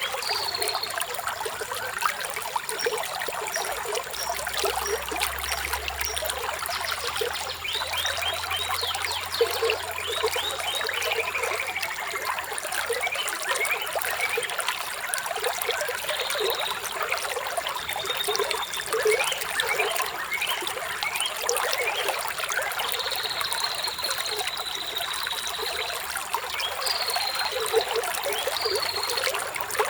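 Water trickling and splashing steadily, like a small stream over stones, with birds calling in short high whistles and trills throughout.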